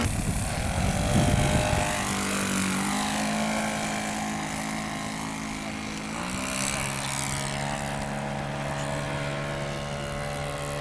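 Radio-controlled model airplane's engine and propeller running steadily in flight, dropping noticeably in pitch about six seconds in, as the plane passes and is throttled back. A gust of wind buffets the microphone in the first two seconds.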